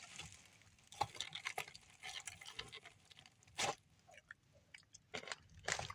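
Person chewing crunchy fried food close to the microphone, with scattered small crunches and mouth clicks and one louder crunch about halfway through.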